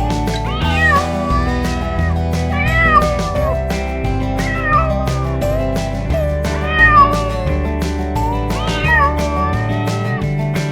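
Domestic cats meowing repeatedly, about one call every second or two, each call rising and falling in pitch, over background music with a steady beat.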